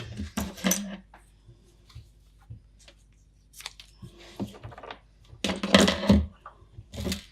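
Irregular clatter and knocks from handling the plastic case and parts of a Commodore 64C computer, with a short cluster of louder knocks a little past the middle.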